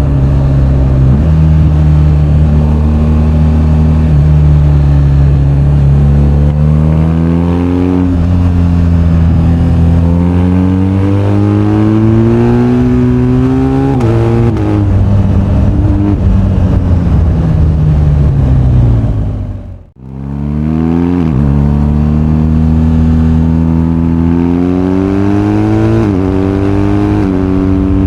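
BMW R1250GS boxer-twin engine under way, revs rising through the gears with sudden drops at each shift, then easing off. The sound cuts out briefly about two-thirds through before the engine pulls hard again.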